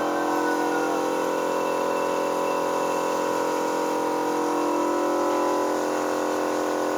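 Steady hum of a running machine motor, several tones held level without change.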